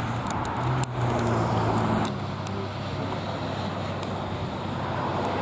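Road traffic: a motor vehicle running close by, with a steady low engine hum that is loudest about a second in and eases after about two seconds.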